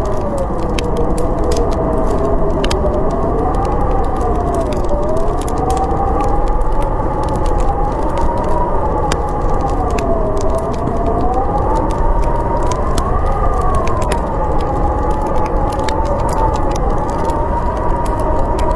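Storm wind howling, its pitch slowly rising and falling over a steady low rush, with the crackle of a wood fire.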